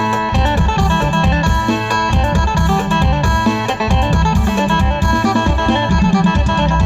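Isan phin (Thai plucked lute) playing a quick melody of plucked notes over a steady, driving low beat.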